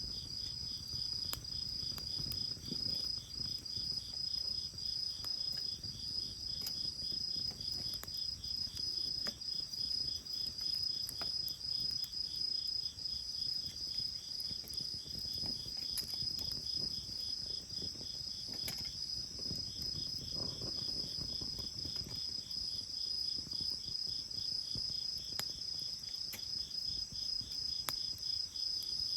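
Crickets singing in a steady high trill, with a second insect pulsing rapidly just below it. Under them a bonfire crackles, with scattered sharp pops.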